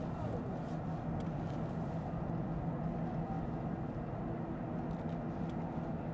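Steady in-cabin driving noise of a 2022 Lexus ES 350 F Sport: the 3.5-litre V6 humming evenly under a low road and tyre rumble, with a few faint ticks.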